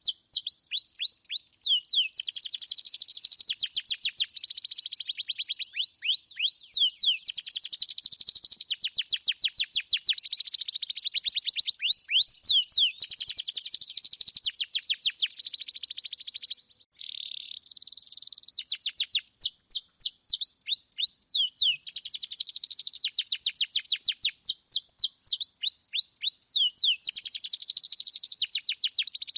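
Domestic canary singing continuously: fast rolling trills alternating with series of high whistled notes that sweep down in pitch, with a short break about halfway through.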